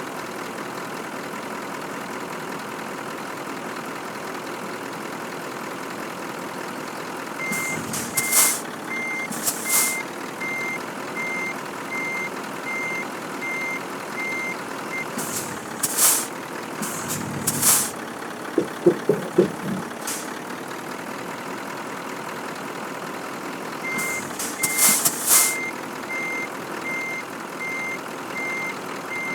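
Scania truck's diesel engine running steadily while its reversing alarm beeps about once a second, twice for several seconds. Short, sharp hisses of air, typical of a truck's air brakes, come several times.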